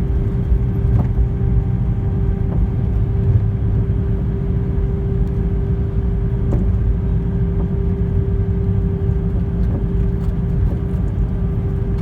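Cabin noise of an Airbus A320 rolling on the ground after landing: a steady low rumble with a steady hum over it.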